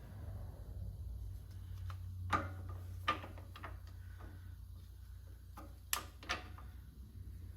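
Sharp metal clicks and taps of tools working on parts inside an opened axle differential while a C-clip is being worked out, about five of them in two pairs with a short ring, over a steady low hum.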